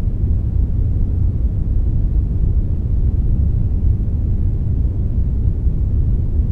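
Synthetic 'brownish' noise, a blend of brown and white noise: a steady, deep rushing hiss with most of its weight in the bass, unchanging throughout.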